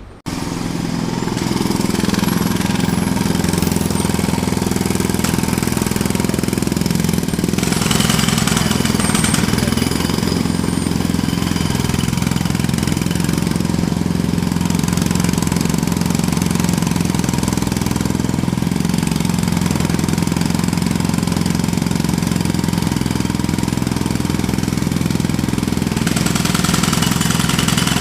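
Jackhammer hammering continuously, with a steady engine-like drone underneath; it comes in abruptly at the start and then holds at one level.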